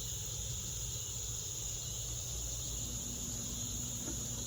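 Steady high-pitched insect chorus going without a break, with a low rumble beneath it.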